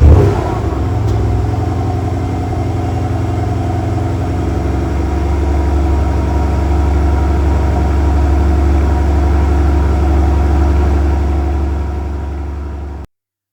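2026 Porsche Panamera GTS's 4.0-litre twin-turbo V8 fires up with a brief loud flare, then settles into a steady idle. The sound fades and cuts off near the end.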